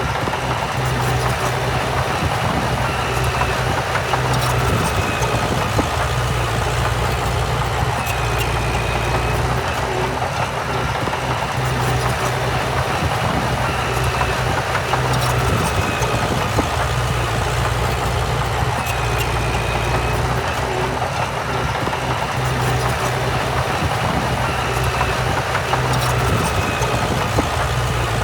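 Heavy diesel earthmoving machinery running steadily, with short high squeaks recurring every couple of seconds.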